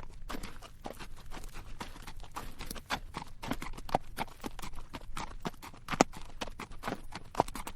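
Horse hooves clopping at a walk on rocky dirt, uneven knocks several a second with a few heavier strikes, along with rattling tack.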